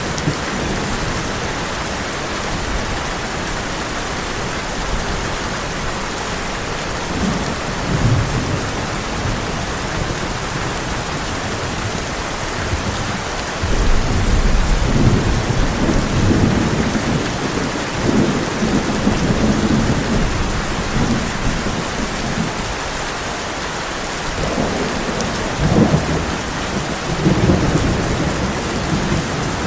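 Heavy rain drumming steadily on a tin roof, with low rolls of thunder rumbling up several times, the longest about halfway through.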